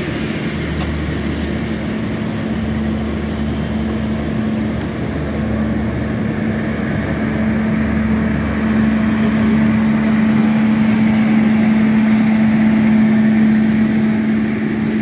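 Passenger coaches of a long State Railway of Thailand express train rolling slowly past, a steady hum and rumble that grows louder in the second half.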